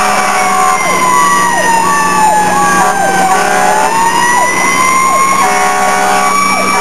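Fire engine siren wailing, its pitch sliding slowly down until about halfway through and then back up, over the truck's running engine.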